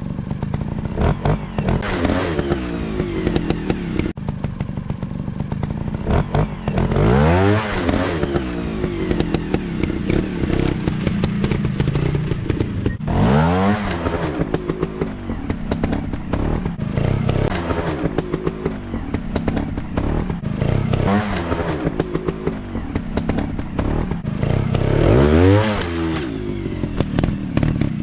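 Off-road trail motorcycles running, with the engine revved hard on the throttle three times, pitch climbing steeply and falling back each time, over a rough, crackling running note.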